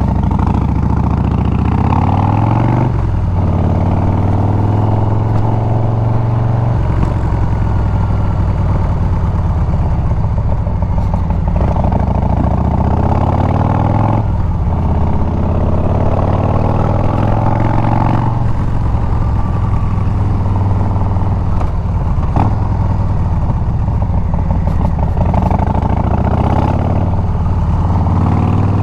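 Harley-Davidson Milwaukee-Eight 114 V-twin running through a Bassani exhaust while the bike is ridden: the engine pitch climbs under throttle and then drops sharply at each gear change, several times over.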